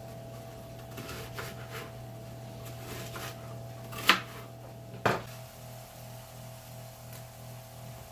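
Light kitchen work sounds: soft cutting and handling knocks, with two sharp knocks about four and five seconds in, over a steady appliance hum.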